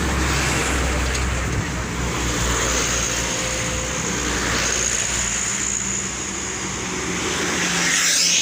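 Road traffic: engines and tyre noise of vehicles passing on a road, with one vehicle passing close by near the end.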